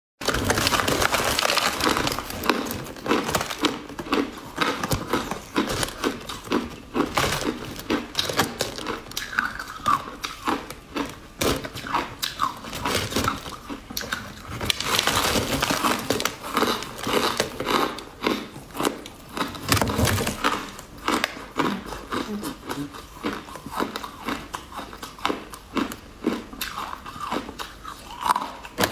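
Mouth noises of biting into and chewing a crunchy, crumbly purple food block. Dense crackling crunches go on the whole time.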